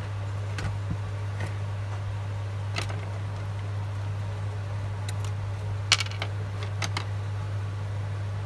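Light clicks and taps of small tools being handled at an electronics repair bench, over a steady low electrical hum. The sharpest click comes as a quick double about six seconds in.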